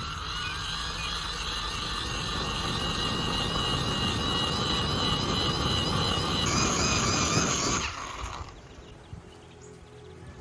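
A small motor running with a wavering whine over a heavy low rumble, dying away about eight seconds in.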